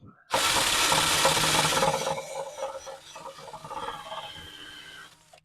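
Power-tool strip wheel grinding undercoating off a muffler: a harsh abrasive whirr, loudest for its first second and a half, then lighter until it stops suddenly near the end.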